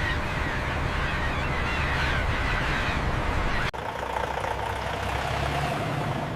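Steady engine running noise. It cuts off abruptly about three and a half seconds in and gives way to a lower steady hum with a faint thin whine.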